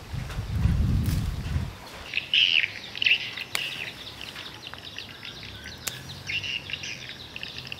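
Small birds chirping in short repeated calls, with a low rumble during the first second and a half and a couple of sharp clicks.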